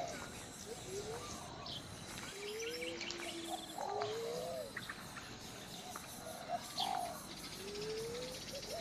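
Birds calling: short, low cooing notes that glide up and down, repeated every second or two, with thin higher chirps scattered among them.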